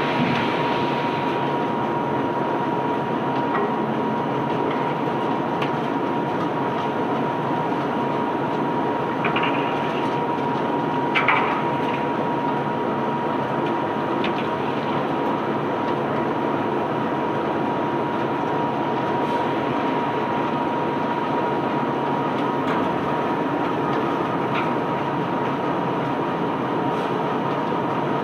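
Ship's conveyor belt running steadily as it unloads sand: a continuous rumbling rattle with a steady whine through it, and a couple of brief knocks around ten seconds in.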